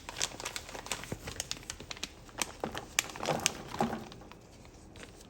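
Plastic packet of Korean rice cakes crinkling and rustling as it is handled and emptied, with many sharp crackles that die away about four and a half seconds in.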